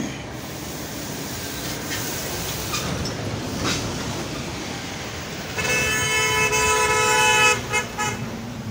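A vehicle horn sounds one long blast of about two seconds, then gives two short toots. Behind it runs steady wind and road noise from the ride.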